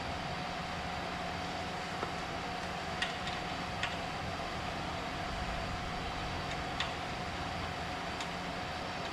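A steady mechanical hum holding an even tone, with a few light, sharp clicks of tools or metal parts scattered through it.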